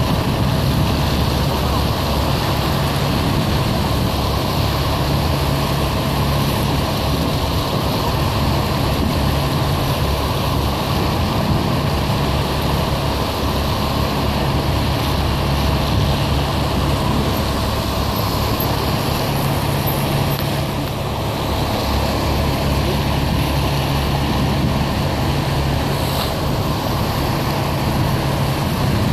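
Steady road-vehicle noise with a constant low engine hum, unchanging throughout, as from traffic in a slow procession.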